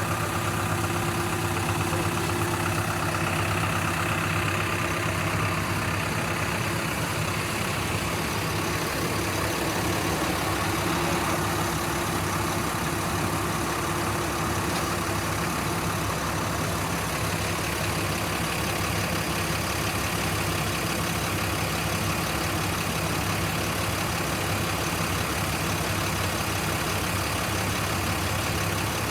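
Heavy engine idling steadily, with no revving or change in pace.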